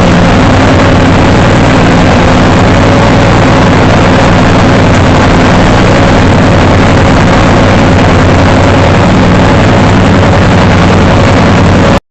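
A small engine running steadily at high power, very loud and close, with no change in speed; it cuts off suddenly near the end.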